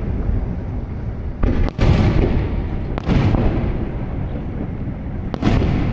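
Aerial firework shells bursting: sharp booms about a second and a half in, at three seconds and again near the end, over a continuous low rumble.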